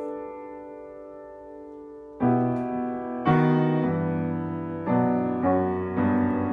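Piano playing slow chords. A held chord dies away, then fresh chords are struck about two seconds in and roughly every second after that.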